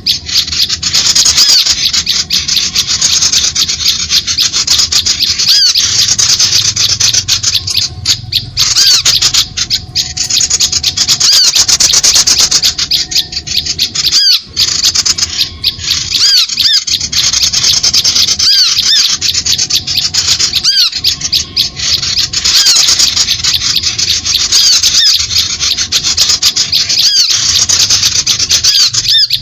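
Bird-lure recording of small birds calling: a dense, loud, continuous mass of high-pitched calls with short arched notes repeated many times a second, the kind of playback used to draw birds to birdlime.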